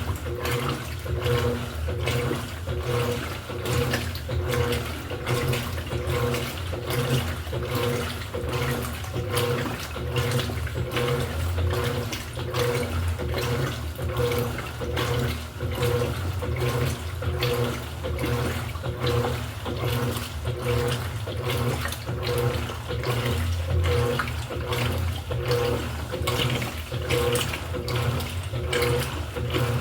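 Electrolux LED14 washing machine running a wash cycle: water churning and sloshing in the tub over a low motor hum, with an even, rhythmic pulse.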